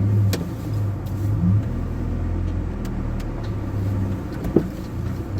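The Gazelle van's ZMZ-405 four-cylinder petrol engine idling with a steady low hum. A single sharp knock sounds about four and a half seconds in.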